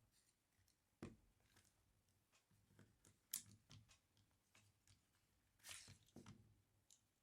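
Faint clicks, taps and a short scrape of small parts and tools being handled on a Tokyo Marui V10 Ultra Compact airsoft pistol during the hammer install. There is a knock about a second in, a sharp click a little after three seconds and a brief scrape near six seconds.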